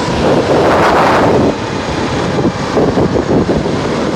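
Loud, steady wind rushing over the microphone of a rider's camera on an electric motorcycle moving at road speed. It eases slightly about a second and a half in.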